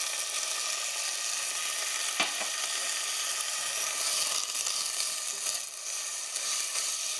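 Sliced Brussels sprouts and bacon sizzling in a hot saucepan just after a splash of chicken stock, stirred with a spatula. One light knock about two seconds in.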